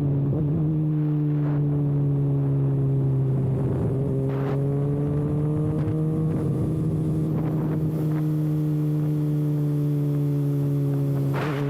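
Kawasaki ZX-6R inline-four sport bike engine running with its exhaust canister removed, held at a fairly steady speed on the move, its pitch sagging slightly and rising again. There is a short burst of extra noise about four seconds in and another near the end.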